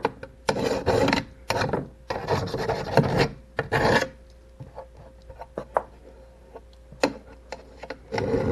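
Small hand file rasping back and forth across a sharp edge, deburring it: about five quick strokes in the first four seconds, then a pause with light ticks and scrapes, and one more stroke near the end.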